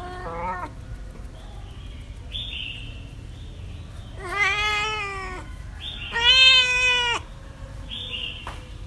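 Cat meowing: a short meow at the start, then two long, drawn-out meows about four and six seconds in, the second the loudest.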